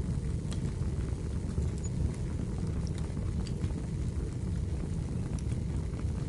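Firewood burning in a fireplace: a steady low rumble of the fire with a scattering of sharp crackles and pops.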